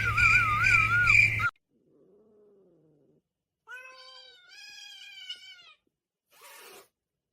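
A domestic cat meowing: a faint low call, then a longer, clearer meow lasting about two seconds, followed by a short rustle. Before it, steady high chirping with a warbling whistle and a low hum cuts off abruptly about a second and a half in.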